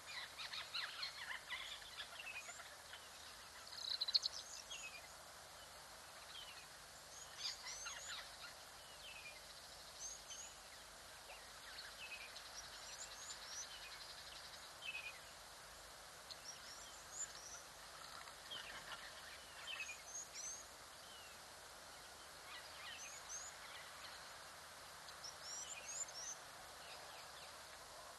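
Wild birds chirping and calling in short, repeated notes over a faint steady hiss, with a brief louder burst about four seconds in.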